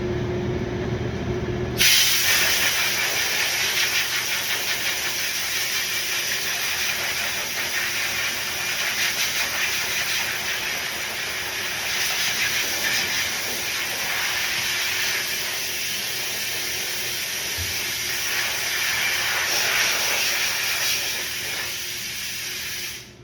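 A steady, loud hiss starts suddenly about two seconds in and cuts off abruptly just before the end. A low hum comes before it.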